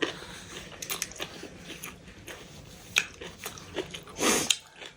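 Close-up eating sounds of a person chewing and biting food, with wet smacks and clicks, and one louder mouth noise about four seconds in.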